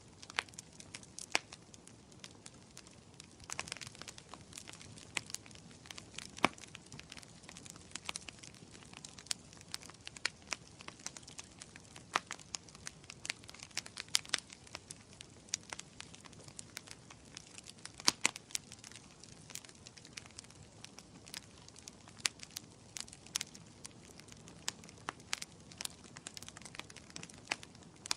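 Wood fire burning in a fireplace, crackling steadily over a soft hiss, with sharp irregular pops several times a second and a few louder snaps.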